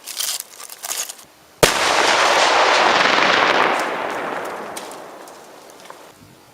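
Flash powder bomb detonating about a second and a half in: one sharp blast, then a loud rushing noise that fades away over about four seconds.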